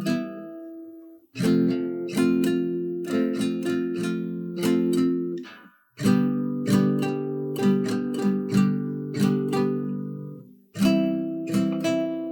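Background music of strummed acoustic guitar chords. It comes in phrases of a few seconds, each ending in a brief drop to near silence before the next begins.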